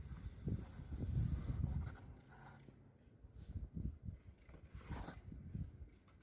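Snow being shoveled: a snow shovel pushed and scraped through snow in uneven strokes, loudest in the first two seconds.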